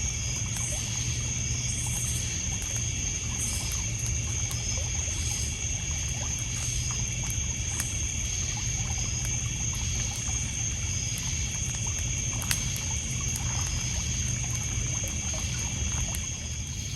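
Lakeside night ambience: a steady, high chorus of crickets and other insects with regular short chirps, small waves lapping on a pebble beach, and scattered crackles from a wood campfire, one sharper pop about twelve seconds in.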